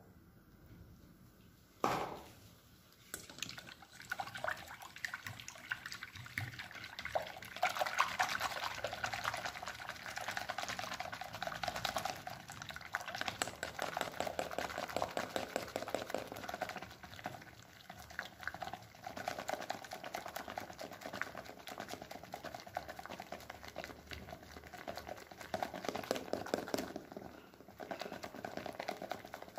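A liquid mixture being mixed in a bowl: a single sharp click about two seconds in, then a continuous wet clicking from about three seconds on.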